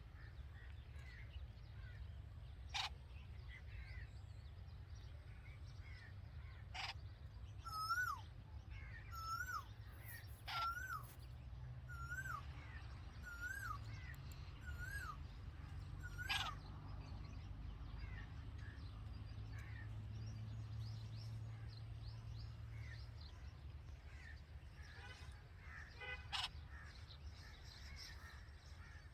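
A bird repeats a short call seven times, each note rising then dropping, about one every second and a half, over a steady low rumble. A few sharp clicks and a brief rapid ticking near the end are also heard.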